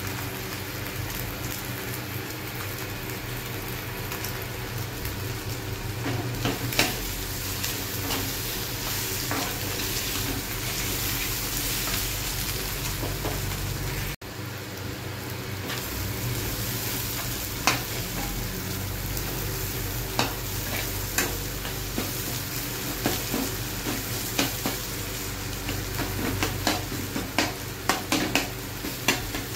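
Egg bhurji sizzling as it fries in a pan while a metal spatula stirs and scrapes it, with sharp taps of the spatula on the pan that come more often near the end.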